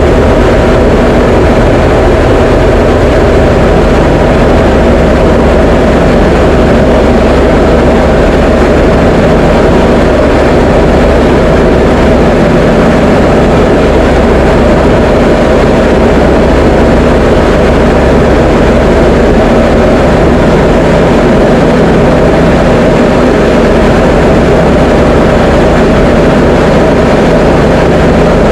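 Diamond DA20 light aircraft's piston engine and propeller running steadily, a loud, even drone.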